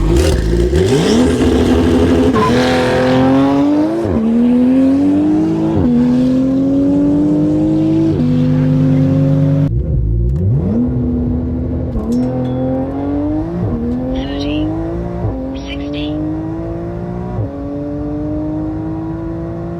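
Porsche 911 GT2 RS twin-turbo flat-six at full throttle, accelerating hard through the gears, its pitch climbing and dropping back at each upshift about every two seconds. About ten seconds in the sound breaks off and a second pull climbs again from low revs through four more shifts.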